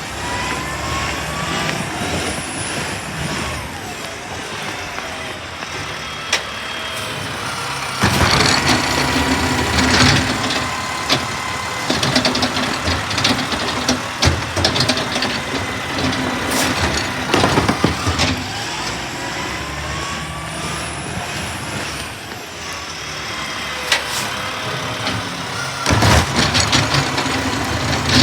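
Garbage truck working: its engine runs under gliding whines that rise and fall in pitch, with bouts of loud clanking and banging about 8 s in and again near the end. The pattern comes round twice.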